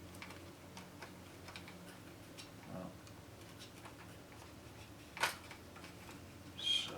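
Faint small clicks and ticks of a small screwdriver and tiny screws being handled while taking apart a boombox chassis, with one sharper click about five seconds in, over a low steady hum.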